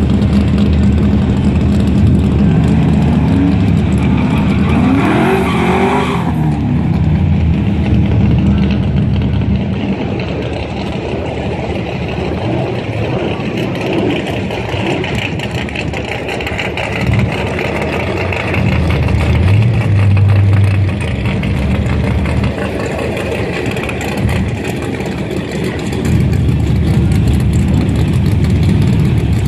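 Modified Pontiac Firebird V8 idling while it creeps forward, with the throttle blipped into short rising revs a few times. About 6 s in there is a brief harsher burst of noise that cuts off suddenly.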